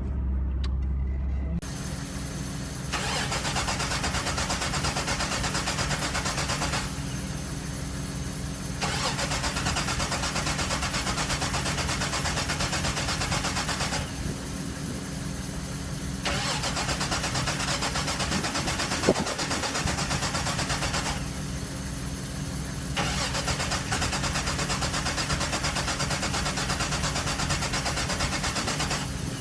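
Car engine running just after it finally caught from a long, cold crank in freezing weather, settling into a steady idle. A hiss swells and drops away every few seconds over the engine, and there is a single sharp click about two-thirds of the way through.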